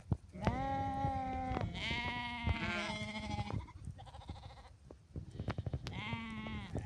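Sheep bleating in a flock, several long calls following and overlapping one another, with a last bleat near the end. Short clicks are scattered among the calls.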